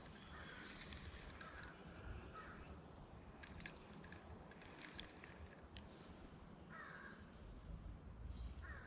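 Faint outdoor quiet with a bird calling several times in short calls, scattered light clicks, and a steady faint high-pitched tone.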